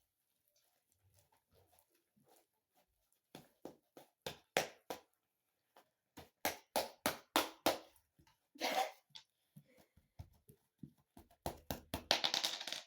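Homemade slime being squeezed and worked in the hands, giving runs of sharp wet clicks and pops, about four a second. There is a longer squelch about nine seconds in and a dense burst of pops near the end.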